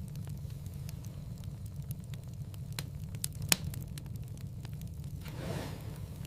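Wood fire crackling in a fireplace: scattered small pops over a steady low rumble of the flames, with one sharper pop about halfway through and a soft whoosh of flame near the end.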